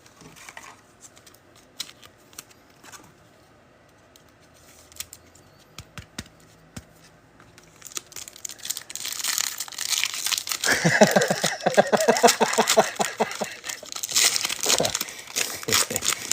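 Foil trading-card pack wrapper being torn open and crinkled, faint handling clicks at first, then loud from about halfway through, with a rapid ripping run in the middle.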